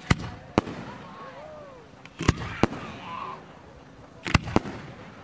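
Professional display fireworks, aerial shells banging: six sharp bangs in three close pairs, a bit under two seconds apart.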